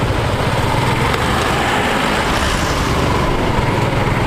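Steady road noise while riding a motorcycle uphill in traffic: the engine, wind on the microphone and passing lorries and buses run together into one even, dense rumble.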